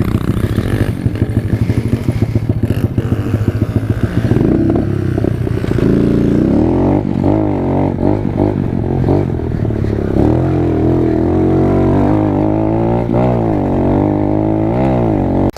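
Small single-cylinder pit bike engine being ridden, with a fast choppy rumble for the first few seconds, then revving up and down again and again as the rider works the throttle and gears.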